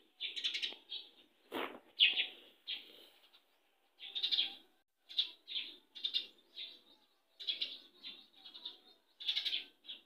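Small birds chirping in short, repeated chirps, one to two a second with brief gaps, and a single soft knock about one and a half seconds in.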